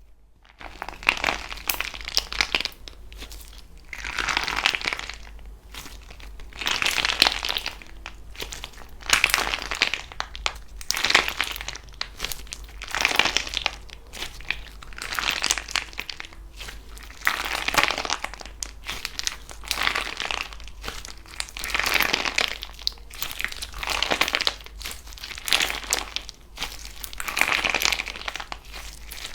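Slime being squeezed and pressed by hand, giving crackly, crinkling sounds in repeated bursts about every two seconds.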